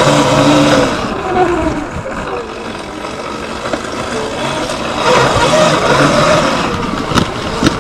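Sur-Ron Light Bee X electric dirt bike's motor whining, its pitch falling near the start and rising again partway through as the throttle changes, over a steady rushing noise of riding. A few sharp clicks near the end.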